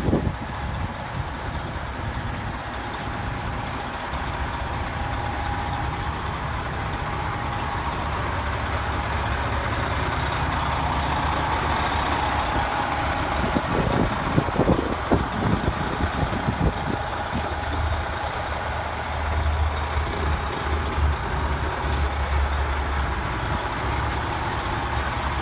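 Semi-truck's diesel engine idling steadily, with a few brief low thumps about halfway through.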